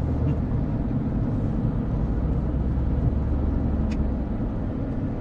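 Steady low rumble of a road vehicle heard from inside, with one short click about four seconds in.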